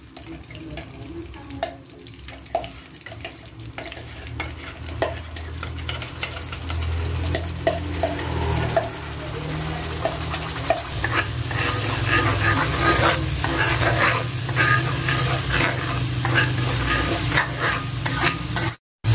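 Spice paste of turmeric, candlenut, shallot and garlic sizzling in hot oil in a wok while a spatula stirs and scrapes it. The frying starts with scattered crackles and builds into a dense, louder sizzle from about halfway through, with a brief dropout just before the end.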